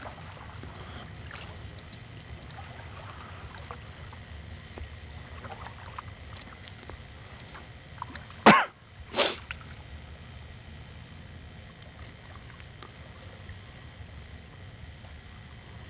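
Two sharp, sneeze-like bursts of breath from a person, about two-thirds of a second apart, a little over eight seconds in, over a faint low background with small scattered ticks.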